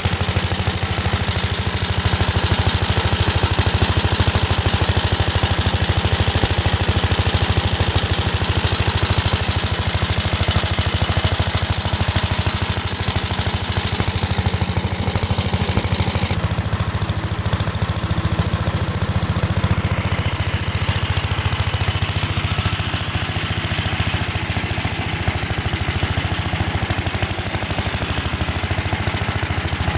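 The single-cylinder engine of a 1968 Gravely C8 walk-behind tractor running steadily, its sound shifting slightly about halfway through.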